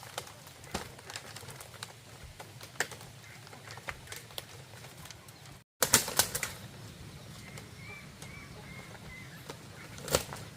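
Irregular light clicks and knocks, with a cluster of louder ones just after a brief break a little past halfway and one more near the end, over faint bird chirps.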